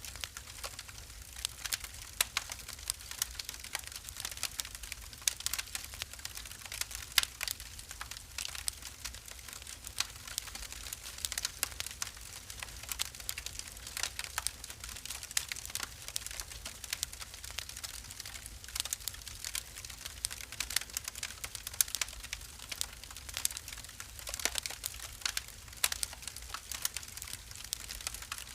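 Wood fire crackling in a fireplace: a dense, irregular stream of sharp pops and snaps over a soft steady hiss.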